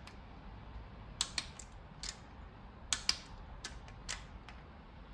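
Scattered, irregular sharp metallic clicks and taps of a wrench and socket working the rocker arm bolts on a 3.8L V6 cylinder head during a second torque-check pass.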